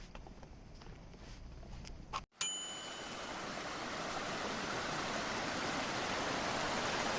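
A single bright bell-like ding about two seconds in, then a steady rushing noise like running water that slowly grows louder and cuts off abruptly.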